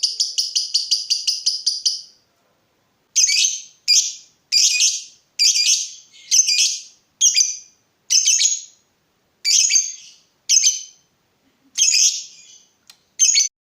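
Lovebird singing: a fast, even trill of high chattering notes, about seven a second, the 'ngetik' (typing) trill. It breaks off about two seconds in, and after a short pause come about eleven separate shrill chirps, roughly one a second.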